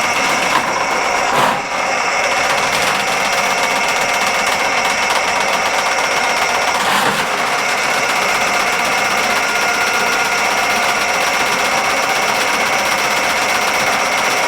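Electric drain snake motor running steadily, with its cable turning in the drain line and an occasional knock.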